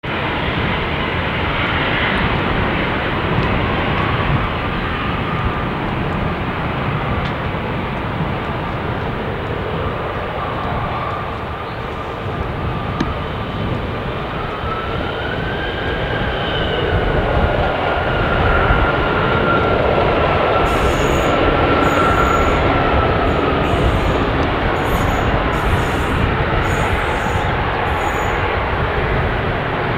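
Boeing 737 jet engines running, a steady whine over broad roar, the whine rising in pitch about halfway through as the engines spool up and the sound grows louder. Heavy wind buffets the microphone throughout.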